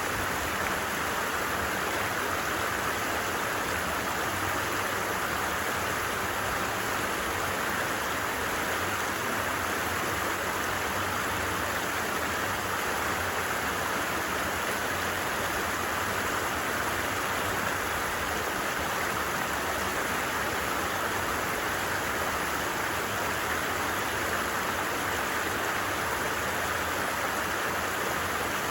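A stream running steadily over rocks, an even, unbroken rush of water.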